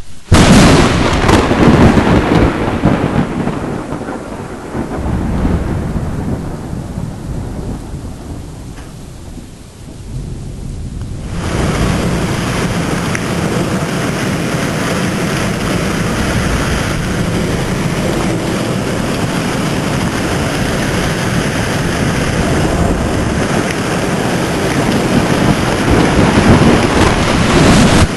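A loud thunderclap, its rumble fading over about ten seconds. Then heavy rain comes in abruptly and pours steadily, with another low thunder rumble swelling near the end.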